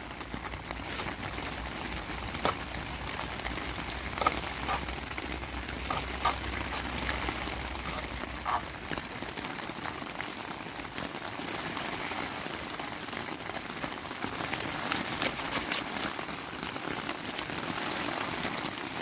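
Steady rain pattering on the fabric of a tent, with a few scattered sharp knocks.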